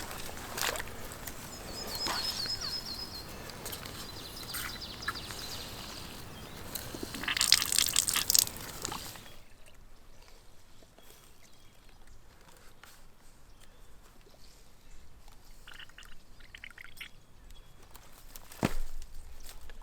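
Outdoor forest sounds: rustling and scuffing, with a bird's short trill about two seconds in and a louder scuffle around seven to eight seconds. From about nine seconds it goes much quieter, with a single knock near the end.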